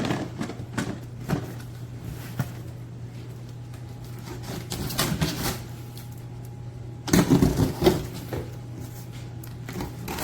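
Handling of a package: scattered clicks and knocks, with a louder stretch of rustling about seven seconds in, over a steady low hum.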